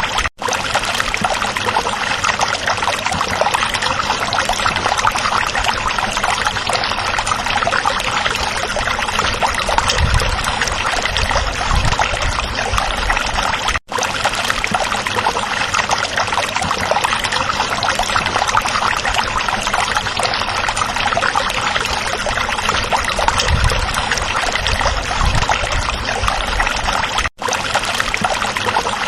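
A small stream running and babbling over rocks, a steady full rush of water that cuts out for an instant three times.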